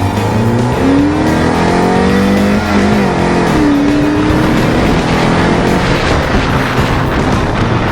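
Car engine accelerating, its pitch rising for the first few seconds, then dropping about three seconds in and running on at a steadier pitch.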